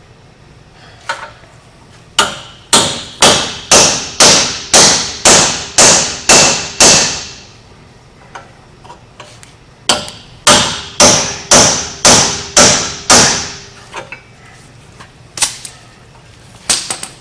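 Hammer blows on a seized wheel hub assembly being driven out of its steering knuckle: a run of about ten hard, ringing metal strikes at about two a second, a pause, then about seven more, with a few lighter single hits around them. The hub is stuck and barely moving.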